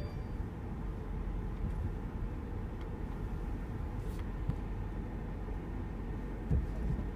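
Steady low road and engine rumble inside the cabin of a 2014 Mercedes-Benz SL550 rolling slowly while its park assist scans for a parking space.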